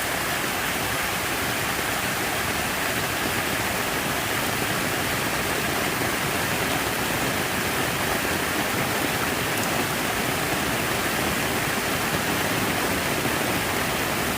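Steady, unbroken rush of falling, splashing water.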